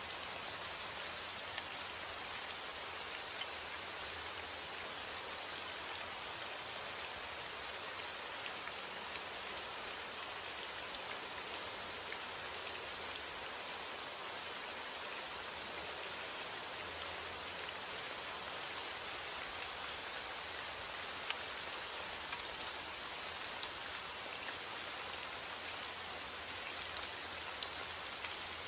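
Steady heavy rain, a constant hiss with the patter of individual drops hitting a surface.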